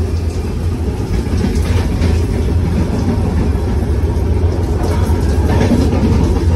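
Brahmaputra Mail express train running, a steady low rumble heard from on board.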